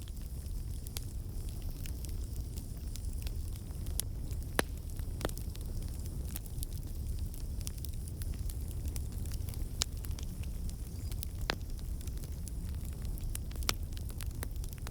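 Campfire burning: a steady low rumble of flames with scattered wood crackles and occasional sharper pops.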